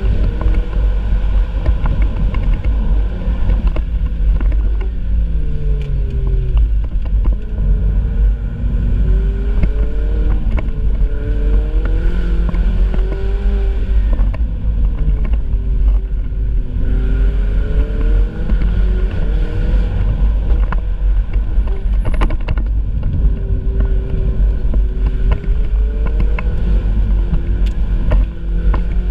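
Ferrari 488 Spider's twin-turbo V8 under way, its engine note rising and falling again and again as the car accelerates and lifts off, over a steady low rumble.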